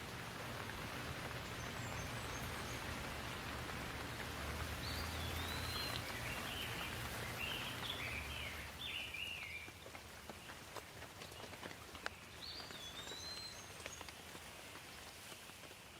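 Steady rain falling, which eases about ten seconds in to scattered drips. A bird gives rising-and-falling whistles and a chattering run partway through, then whistles again near the end.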